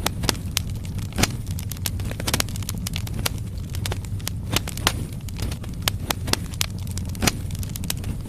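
Logs burning in a fireplace: irregular sharp wood crackles and pops, several a second, over a steady low rumble of the fire.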